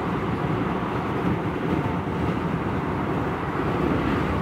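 Vande Bharat Express electric multiple-unit train running along the track, heard from on board: a steady, even noise of wheels and coach in motion.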